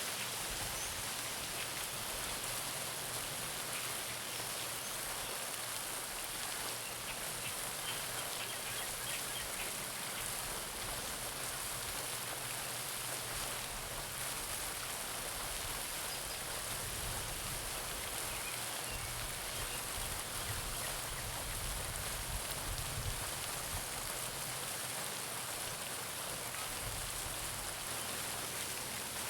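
Garden pond fountain splashing steadily, its jets of water falling back onto the pond surface in an even patter.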